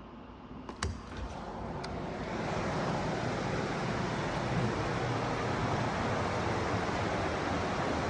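A sharp click under a second in, then the steady rush of a waterfall swells over the next couple of seconds and holds.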